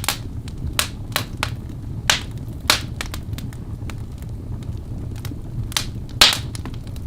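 Wood fire burning in a fireplace: a steady low rumble of flames with sharp, irregular crackles and pops from the burning logs, the loudest pop about six seconds in.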